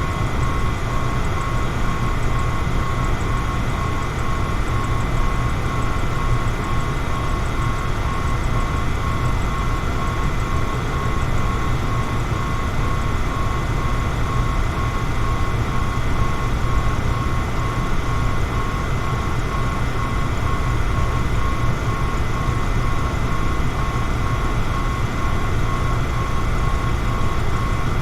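Electric fan running steadily: an even rush of air over a low rumble, with a constant high whine from the motor.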